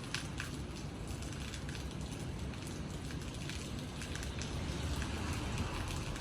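Steady rain falling, with scattered drops ticking sharply over an even hiss and a constant low rumble underneath.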